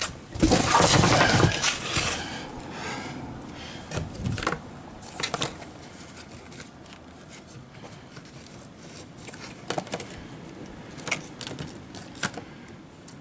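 Plastic oil access panel on a Champion 4500 W inverter generator being opened and handled: a loud scraping rattle near the start, then scattered light clicks and taps.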